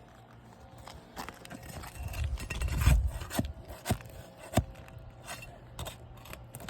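Flat bar scraping and prying under old asphalt roof shingles to work the nails loose, with a series of sharp clicks and knocks.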